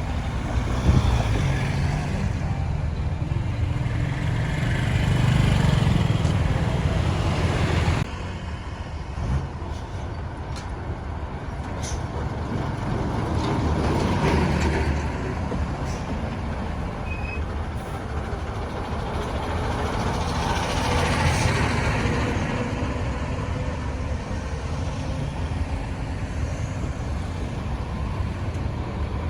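Road traffic noise: the steady low rumble of passing vehicle engines, including trucks, swelling as vehicles go by. The level drops abruptly about eight seconds in.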